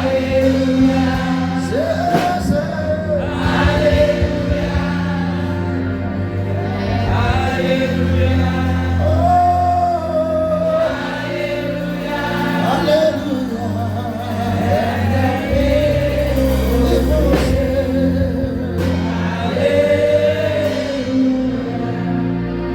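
Gospel song with choir singing over sustained bass and chords.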